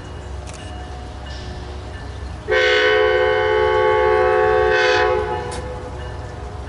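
Locomotive air horn sounding one long blast of about two and a half seconds, a chord of several tones together, over the low rumble of the train; fainter horn tones hang in the air before it.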